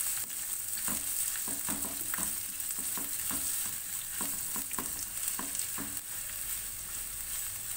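Green chillies and ginger frying in oil in a frying pan: a steady sizzle with irregular short clicks and taps through it.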